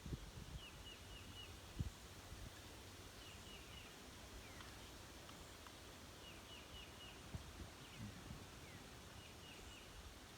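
Faint outdoor birdsong: short chirps in quick runs of three or four, repeated every few seconds, with a few falling whistles in between. A soft thump about two seconds in.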